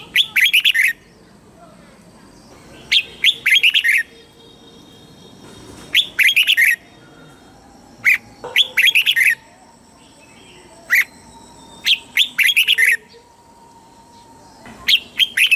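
Red-whiskered bulbul singing: short, bright phrases of quick chirping notes, repeated about every three seconds, each led by a single sharp note.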